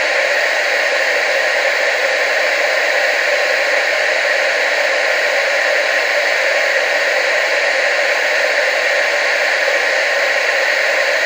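Television static: a steady, unbroken hiss, loudest in the middle and upper range with almost no low end.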